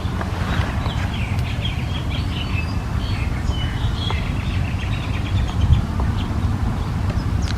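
Small birds chirping in a quick run of short, high chirps that fade out past the middle, over a steady low rumble.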